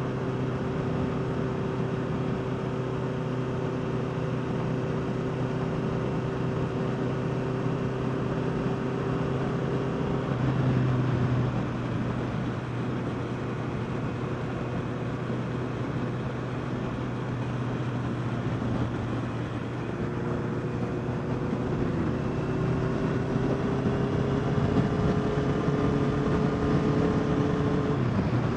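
Honda CBR650R's inline-four engine running under way, with wind rush over the bike. The engine note holds steady, changes briefly about ten seconds in, then climbs gradually through the last third as the bike accelerates.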